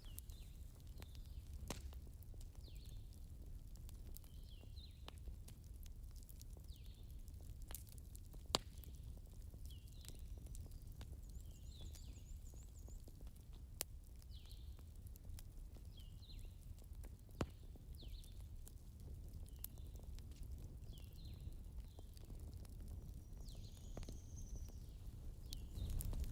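Campfire crackling faintly over a low rumble, with scattered sharp pops, a few louder ones, and short high chirps recurring about once a second.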